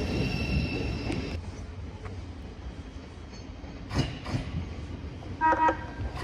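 Thameslink Class 700 electric multiple unit departing close by, with a rumble and a steady high whine that cut off about a second in. Then quieter rail noise from a second Class 700 approaching, with a sharp click and a short horn note about five and a half seconds in.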